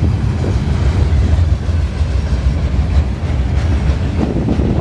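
Train rolling past close by: a steady low rumble.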